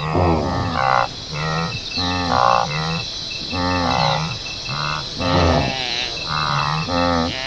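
A run of pitched animal calls, about one a second, each with a wavering, bending pitch, over steady cricket chirping.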